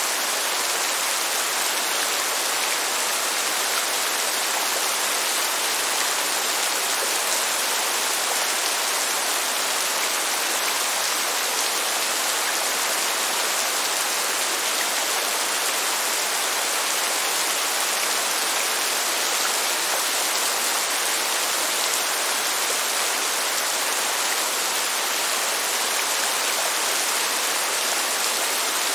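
Steady, even rain hiss with no thunder and no single drops standing out.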